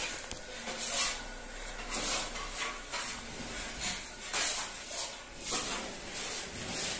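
Repeated scraping strokes of a hand tool across plaster or drywall, about one stroke a second in an uneven rhythm.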